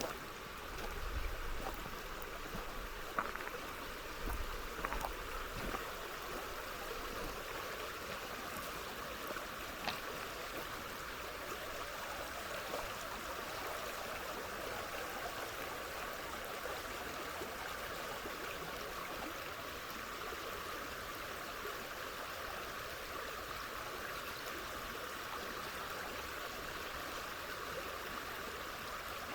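Serpis River water running past in a steady, even rush. A few low bumps and faint clicks come in the first several seconds.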